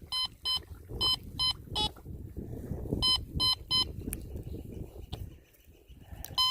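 Teknetics Delta 4000 metal detector beeping as its coil sweeps back and forth over a buried target, short tones about two a second. The beeps come in a run at the start, a second run a few seconds in, and once more near the end.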